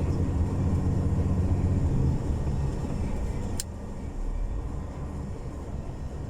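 Semi-truck's diesel engine drone heard from inside the cab while driving on packed snow. A single sharp click comes about three and a half seconds in, and the drone is quieter after it.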